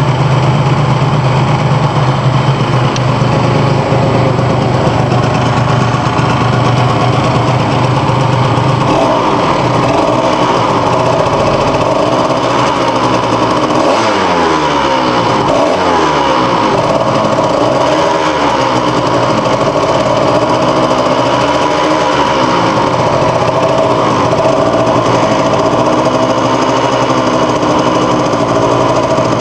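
Small engine fitted with a Sito Plus aftermarket exhaust, idling steadily, then from about nine seconds in revved up and down again and again.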